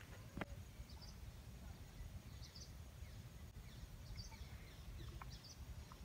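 Faint, distant bird calls: short high chirps every second or so over a steady low rumble, with a soft click about half a second in.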